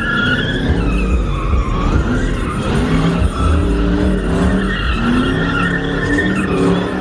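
A car spinning in donuts: its tires squeal continuously over an engine that revs up and down.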